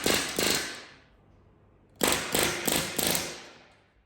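Riveting work: two bursts of rapid, sharp metallic clicking at about six strikes a second. The second burst starts about two seconds in.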